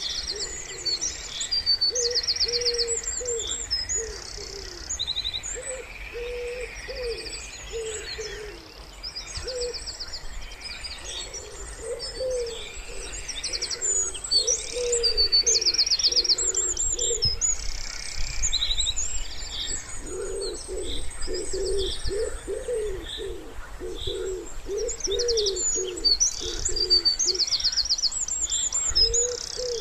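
Wood pigeons cooing in repeated low phrases, busiest in the second half, with small songbirds singing high trills and chirps over them.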